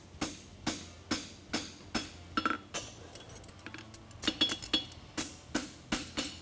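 Farrier's hammer striking a concave steel horseshoe on the anvil, ringing blows about two a second. The blows pause briefly after about three seconds, then come back quicker.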